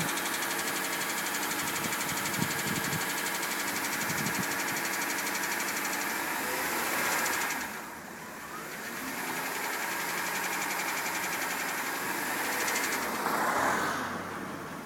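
Jaguar XJ8's V8 engine running steadily. Its sound dips in level about eight seconds in, swells briefly near the end, and then falls away.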